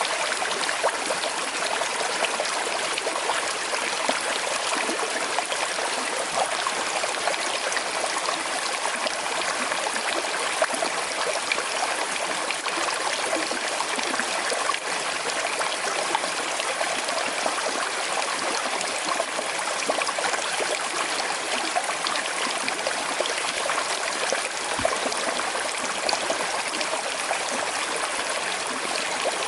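Small river flowing steadily over stones, a continuous babbling and trickling of water.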